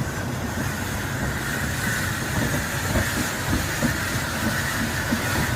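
Robert Stephenson & Hawthorns 0-6-0ST saddle-tank steam locomotive hissing steam steadily, over a low rumble with scattered small knocks.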